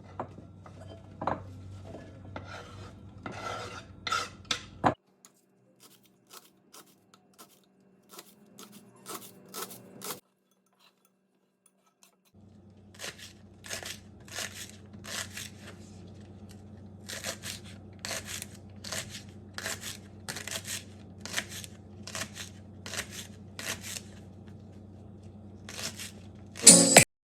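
Repeated rubbing and scraping strokes with clinks of dishes or utensils over a steady low hum, about one to two strokes a second. There is a short break in the middle, and a loud knock comes near the end.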